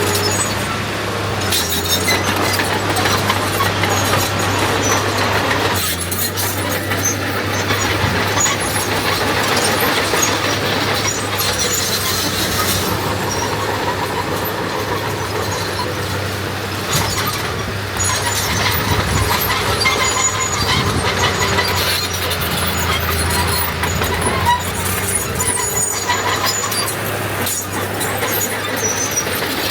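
Diesel earthmoving machinery running steadily, a constant low engine drone under squealing and clanking metal noise.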